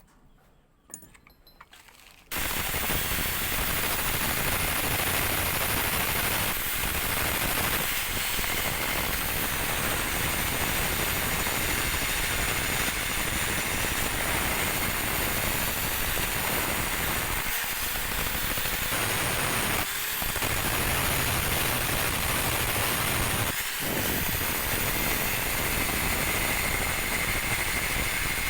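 A power tool driving a homemade lathe chuck switches on about two seconds in and runs steadily, a loud rattling noise with a high whine, briefly easing off three times near the end.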